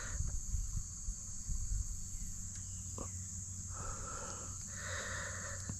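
A catfish held out of the water croaking twice, short rasping grunts about four and five seconds in, over a steady high drone of insects, with a few small handling clicks.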